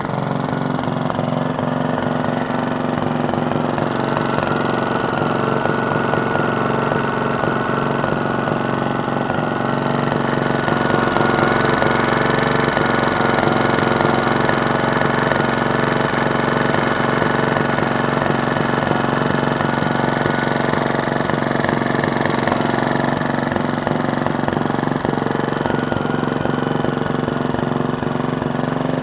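1947 Briggs & Stratton Model NS single-cylinder four-stroke engine (wash-machine type, carburetor with no air filter) running steadily at a constant speed, its firing even, a little louder in the middle stretch.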